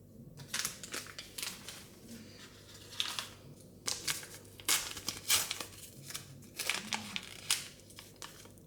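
Plastic wrapping crinkling and tearing in quick, irregular crackles as a Mini Brands surprise ball is unwrapped by hand.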